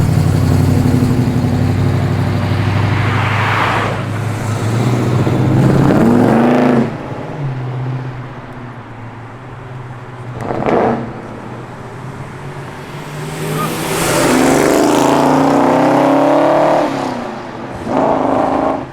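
Muscle car engines idling low, then revving up and accelerating away in several rising runs, a short blip about halfway and the longest, loudest rev in the last third.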